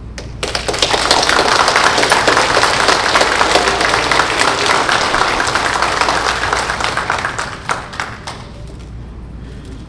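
Audience applauding. The clapping swells in about half a second in and dies away around eight seconds in.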